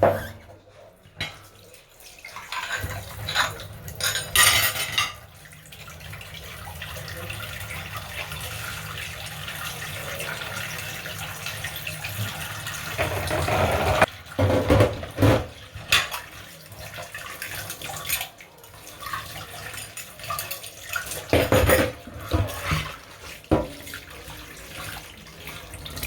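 Kitchen tap running into a sink while dishes and cutlery clink. The water runs steadily for several seconds in the middle, with bursts of clattering before it, right after it stops, and again near the end.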